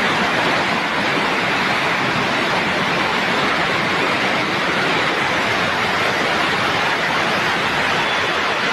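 Storm water rushing steadily and loudly, an unbroken wash of noise from the flooding.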